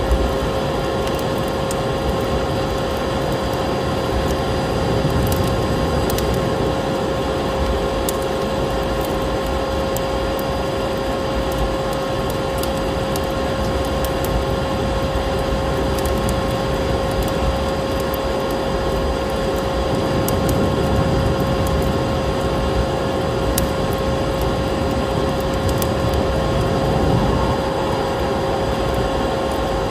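Vacuum cleaner running steadily with a constant motor hum, layered with the sharp crackles and pops of a wood fire.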